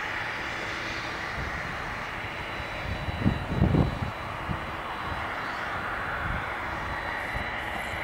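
Boeing 767-300 jet engines running at low taxi power, a steady hum and whine. About three seconds in, a second or so of low buffeting thumps on the microphone is the loudest sound.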